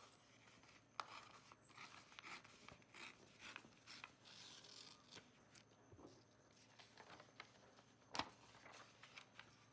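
A sheet of paper being folded and creased by hand: soft rustling and rubbing, with scattered sharp clicks, the loudest about eight seconds in.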